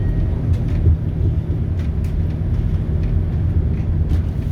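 Scania DC9 five-cylinder diesel engine of a city bus running steadily, a low drone with a few light rattles.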